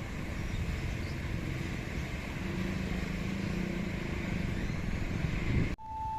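Steady rumble of passing vehicles. About six seconds in, it cuts off abruptly to a single steady electronic tone.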